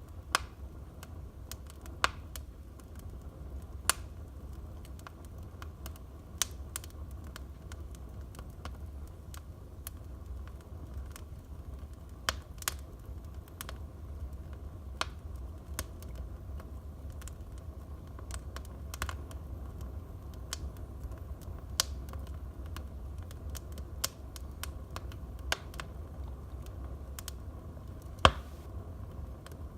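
Wood fire burning in a fireplace: irregular sharp crackles and pops from the burning logs over a steady low rumble of the flames, with a louder pop near the end.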